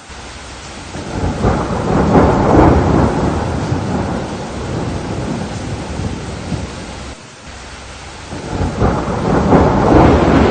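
Steady rain with two long rolls of thunder: the first builds about a second in and slowly fades, the second swells up near the end.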